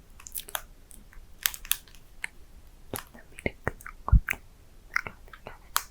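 Close-miked wet mouth clicks and lip smacks from inaudible ASMR whispering, in quick irregular bursts, with one louder low thump about four seconds in.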